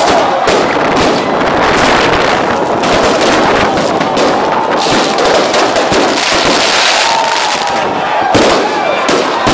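Fireworks going off without a break: a dense, loud run of bangs and crackling.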